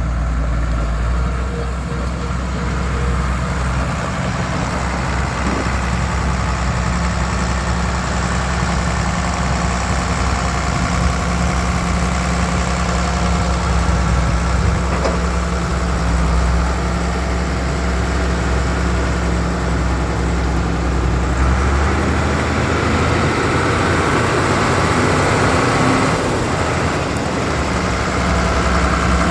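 1971 Case 970 tractor's six-cylinder diesel engine idling steadily. Near the end the engine speed rises a little and holds for a few seconds, then drops back to idle.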